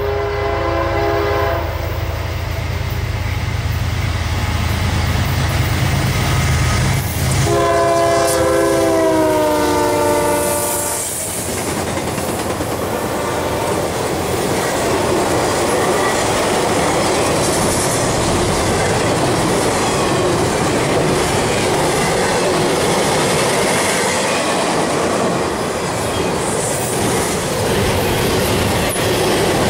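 Intermodal freight train's diesel locomotives sounding the horn, a short blast at the start and a longer one about 7 to 11 seconds in whose pitch drops as the lead unit passes, over the low rumble of the engines. Then the steady rumble and clatter of trailer and double-stack cars rolling by.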